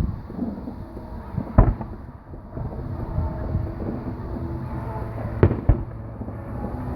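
Aerial fireworks bursting: one loud bang about a second and a half in, then two sharp bangs close together near the end, over a steady low rumble of further bursts.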